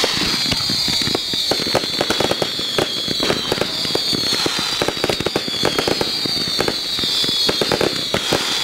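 Fireworks display going off: dense, rapid crackling and sharp bangs, with a high whistle that slides down in pitch over and over.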